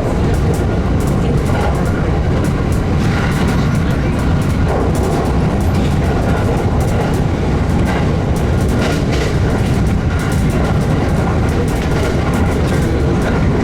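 JR Joetsu Line train running along the track: a steady rumble of wheels on rails at an even level, with faint clicks over it.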